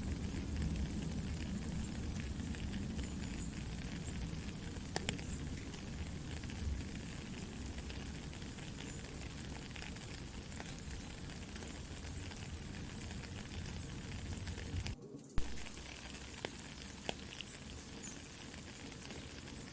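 Soft, steady rain with the scattered pops and crackles of a campfire. About fifteen seconds in, the sound drops out for a moment, then comes back with a sharp crackle.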